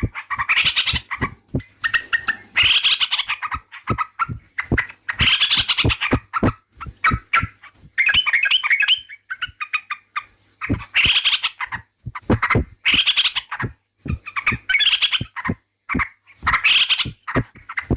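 Yellow-vented bulbul (trucukan) singing: repeated short, loud phrases about a second long, with brief pauses between them.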